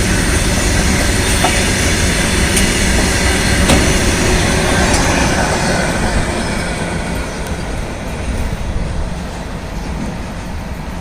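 An Indian Railways train running past on the rails, its wheels rattling steadily with a few sharp clicks. The sound grows quieter over the second half.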